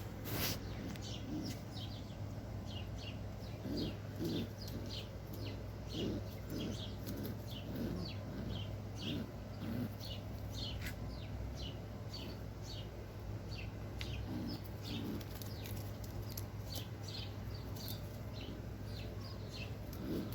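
Pigeons cooing in repeated low bursts, among a steady run of short high chirps from birds, over a constant low hum.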